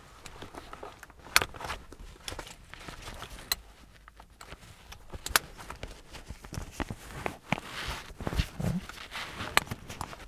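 Rustling and scattered sharp clicks and knocks as a person settles into a car's driver's seat and gets ready, with the loudest clicks near the start, the middle and the end.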